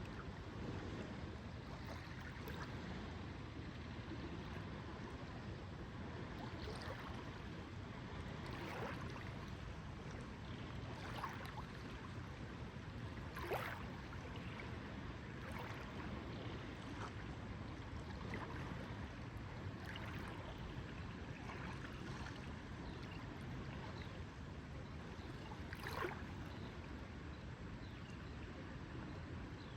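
Lake water lapping gently, with small irregular splashes and gurgles over a steady low rush of background noise.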